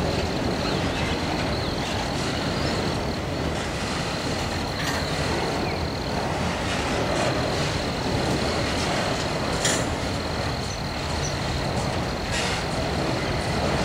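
Autorack freight cars rolling slowly past, with a steady rumble of steel wheels on rail and a few scattered clicks.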